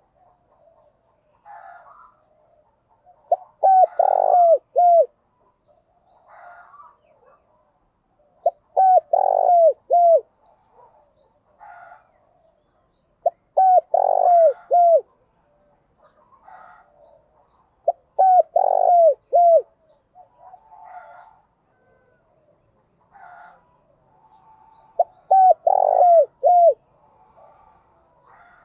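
Spotted doves cooing: five loud phrases of three or four short, falling coos, one about every five seconds, with fainter calls between them.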